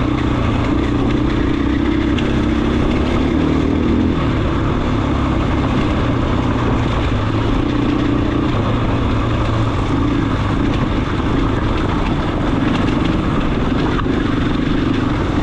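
2023 KTM 500 EXC-F's single-cylinder four-stroke engine running while the dirt bike is ridden along a trail, at a fairly steady throttle with small rises and falls in pitch.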